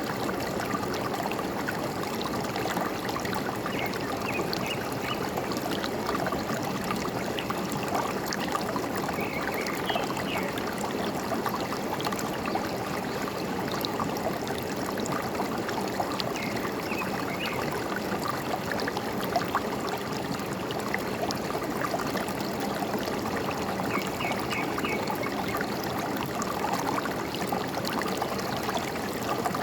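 A forest stream flowing steadily. A bird chirps four times, each a quick run of short high notes, several seconds apart.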